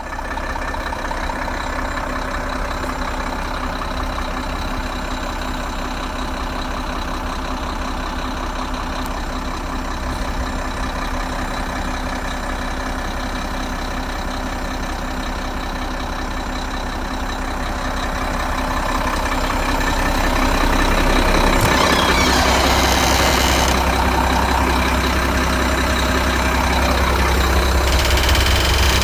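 Mack 400 hp six-cylinder diesel truck engine running steadily at idle. About two-thirds of the way through it grows louder, with a sharp click and a short spell of hiss.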